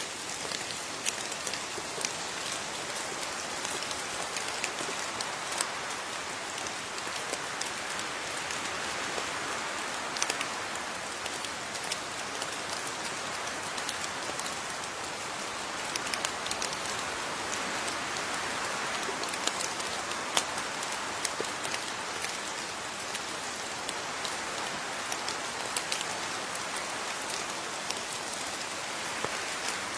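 Steady rainfall: an even hiss of rain with many individual drops ticking sharply on a hard surface throughout.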